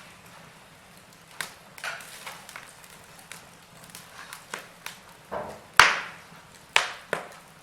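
Wood fire in a fireplace crackling: irregular sharp pops and snaps over a faint hiss. The loudest pop comes about six seconds in, followed by two more close together near the end.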